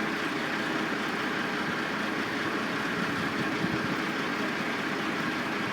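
Construction-site machinery engines running steadily: a continuous, even drone of heavy equipment with no breaks.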